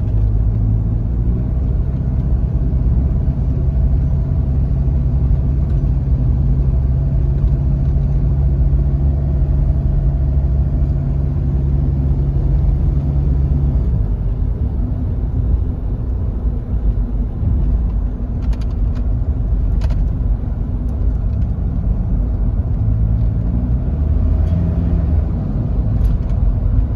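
Toyota Land Cruiser Prado KZJ95's 3.0-litre four-cylinder turbo diesel driving, its engine note held steady for the first half, then changing pitch, with a rise as it accelerates near the end. A few sharp clicks come at about two-thirds of the way through.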